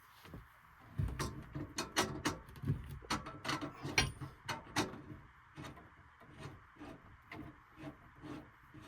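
Irregular knocks, clatters and rubbing of objects being handled, densest between about one and five seconds in and lighter after, over a faint steady hiss.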